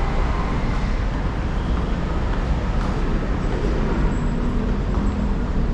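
Steady traffic noise from a busy multi-lane city road, a continuous rumble of passing vehicle engines and tyres.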